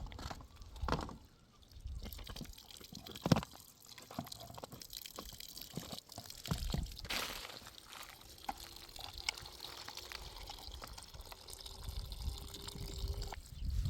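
Water pouring and dribbling, with scattered knocks and clicks and one sharper knock a few seconds in.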